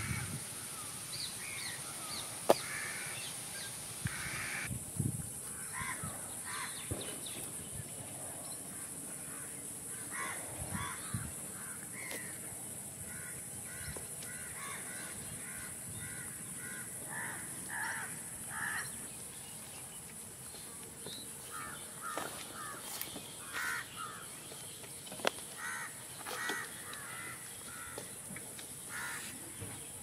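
Birds calling in short notes, repeated in clusters, over a steady high hiss. A sharp click sounds about two and a half seconds in.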